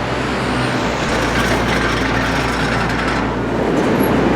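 City street traffic, with a heavy vehicle such as a bus or truck going by; its hiss is strongest in the first three seconds or so and then eases over a steady low engine hum.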